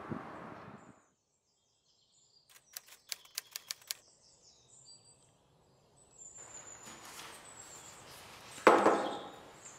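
Faint high bird chirps in a quiet room, with a quick run of about eight sharp clicks a little over two seconds in. Near the end comes a single loud, hollow thump.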